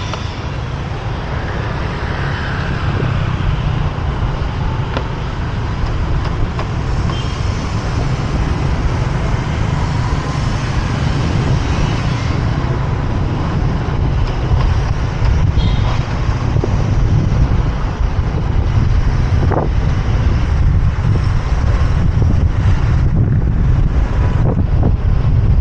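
Wind rumbling on the microphone of a moving motorbike, over the noise of city road traffic, slowly growing louder.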